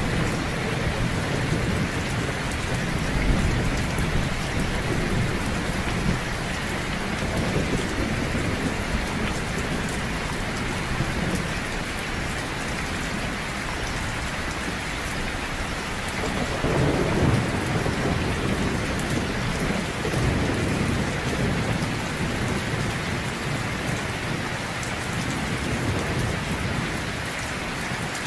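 Heavy rain falling steadily, with low rolling thunder swelling in, loudest a little past the middle.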